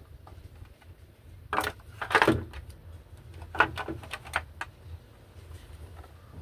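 A few sharp clinks and knocks of tools and parts being handled, about a second and a half in, again just after two seconds, and twice more around three and a half to four and a half seconds in, over a low steady hum.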